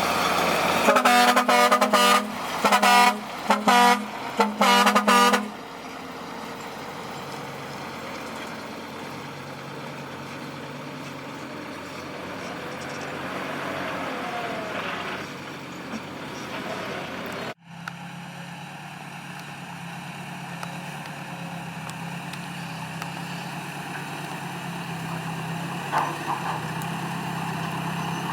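A string of about five short horn blasts from a truck or heavy machine, followed by the steady running of a heavy diesel engine.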